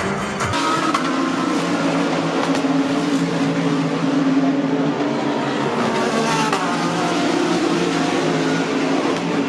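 Race car engine running at a fairly even pitch, after an abrupt change in the sound about half a second in.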